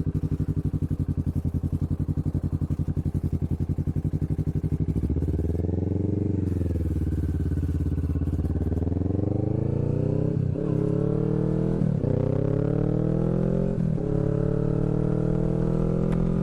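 Kawasaki Vulcan S parallel-twin engine through aftermarket Hoonk twin exhaust pipes, running at a steady low speed and then revving up and down once. It then pulls hard with a rising note, broken by three gear changes where the pitch drops suddenly. A speaker's word for the pipes is "mean".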